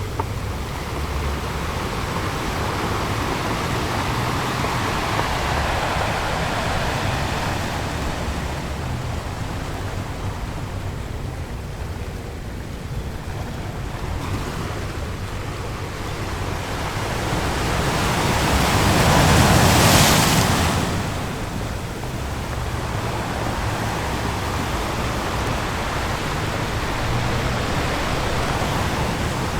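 Ocean waves breaking on a beach: a steady wash of surf that swells and eases, with one bigger wave crashing louder about two-thirds of the way through.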